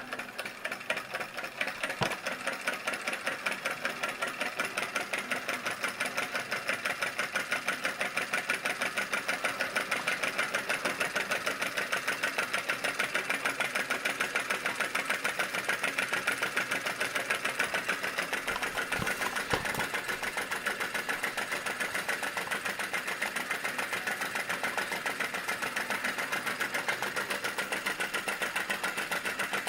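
Model vacuum (flame-licker) engine running at full speed, around 500 rpm, with a rapid, even clicking and popping beat. The beat gets louder over the first couple of seconds, then holds steady.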